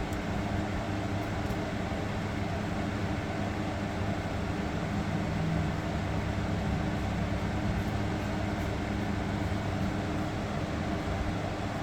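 Window air conditioner's fan running steadily on its own, with the compressor not yet switched on.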